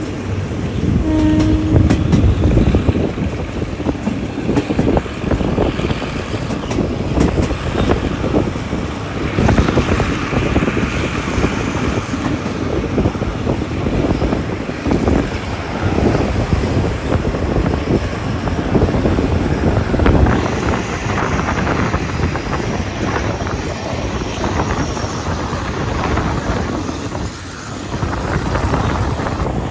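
Passenger train running at speed, its wheels clattering steadily over the rails, heard from on board.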